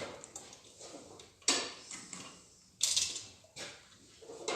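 Small steel valvetrain parts clinking and clattering as they are handled and set down on metal. These are the rocker arms and hydraulic lash adjusters being taken out of a G4NA cylinder head. The clinks are irregular, with two louder clanks, one about a third of the way in and one past the middle.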